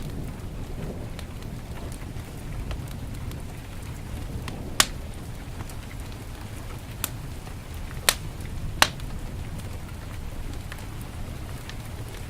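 Wood fire crackling in a fireplace, with a handful of sharp pops, over the steady rush of heavy rain.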